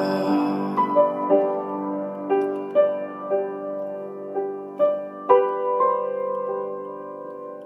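Slow piano music: single notes and chords struck one after another and left to ring, fading away near the end.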